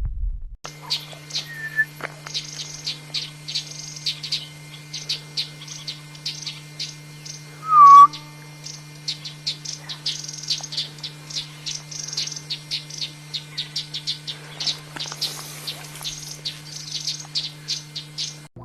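A bird chirping over and over in short, high chirps. One louder whistled call comes about eight seconds in. A steady low hum runs underneath.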